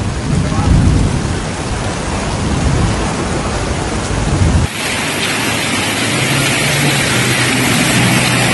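Steady noise of heavy rain, with a deep rumble under it for the first part. About two thirds of the way through it changes abruptly to a brighter, hissier rain sound.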